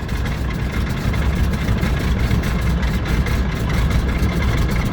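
Pratt & Whitney R-985 nine-cylinder radial engine of a Stinson running at a low, steady idle with a low, pulsing beat. It has just started and is warming up, with a little throttle, and is settling into running on its own.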